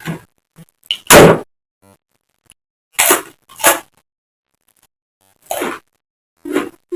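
Close-miked eating of raw vegetables: a series of loud, separate crunching bites and chews, the loudest about a second in.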